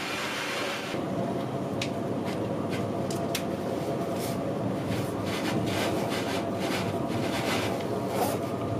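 Deutsche Bahn Intercity carriage running along the track, heard from inside: a steady rumble of wheels on rail with a few sharp clicks and rattles scattered through it.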